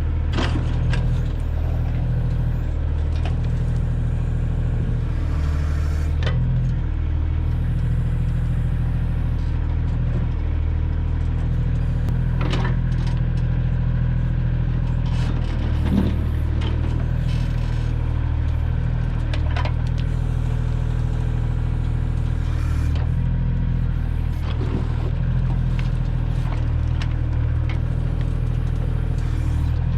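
Kioti tractor's diesel engine running steadily under load while its backhoe digs, with a few sharp clanks scattered through.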